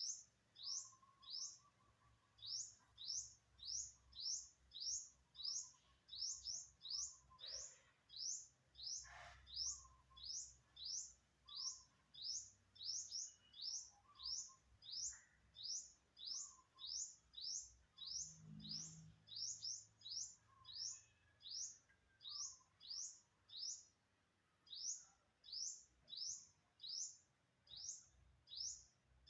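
A bird repeating one short, high chirp over and over at an even pace, about three chirps every two seconds, with fainter, lower calls in the background.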